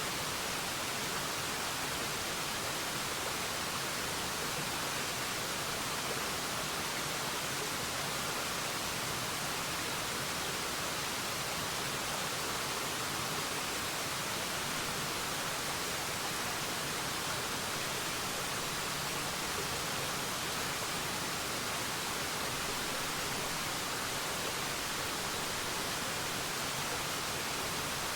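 Waterfall: a steady, even rush of falling water, bright and hissy, that never changes.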